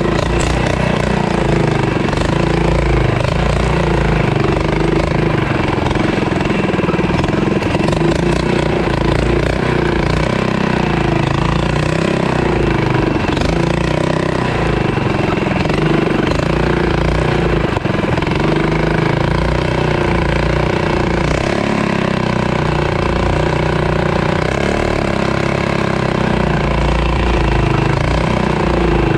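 Mini bike's small engine running under way, its revs rising and falling as it rides.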